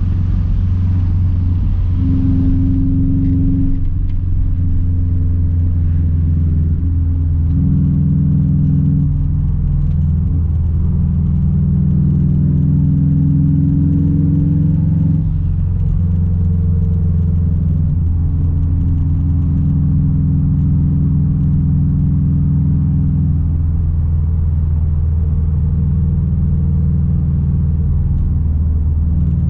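2006 Subaru WRX STI's straight-piped turbocharged flat-four running at steady low revs: a loud, deep, even exhaust drone.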